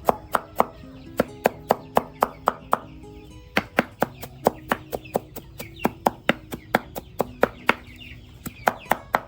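A knife chopping greens on a cutting board in quick, even strokes, about four a second, pausing briefly just after three seconds in and again around eight seconds in.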